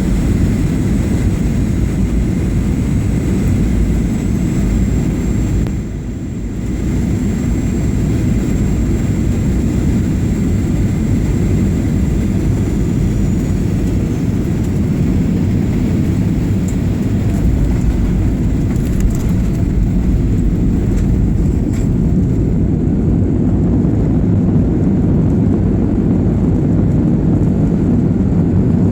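Steady low rumble of a Boeing 737-800's CFM56 jet engines and airflow heard from inside the cabin, with a brief dip in level about six seconds in. A thin high whine runs alongside and fades out after about thirteen seconds.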